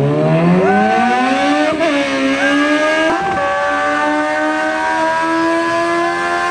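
Sportbike engine on a dyno pulling hard through the gears. The pitch climbs and levels off, then drops at upshifts about two and three seconds in, and climbs more slowly in a higher gear.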